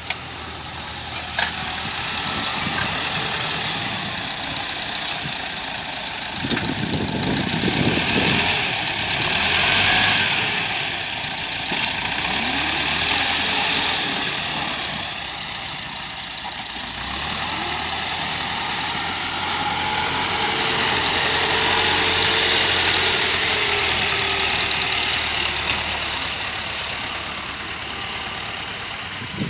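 T-40 tractor's diesel engine running under varying load, its speed and loudness rising and falling several times. It is loudest about ten seconds in and again in the later part.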